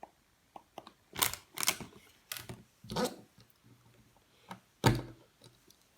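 Plastic LEGO parts being handled: a series of sharp clicks and short rattles, with several louder ones a little after a second in and a strong one near the end.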